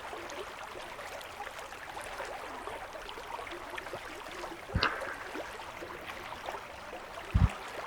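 Steady rushing of a river flowing. There is a sharp click about five seconds in and a short low thump near the end.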